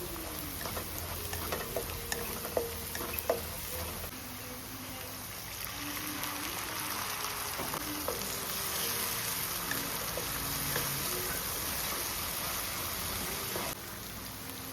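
Food frying and sizzling in hot oil in a pan, with a few sharp clicks of a utensil against the pan in the first four seconds. The sizzle drops a little about a second before the end.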